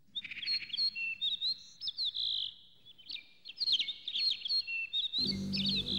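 Songbird chirping and trilling in quick high phrases with short gaps. About five seconds in, low steady music comes in under the birdsong.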